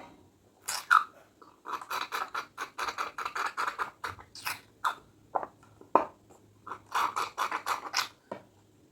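Close-miked chewing of crunchy food: two runs of rapid, crackling crunches, with a few single snaps between them.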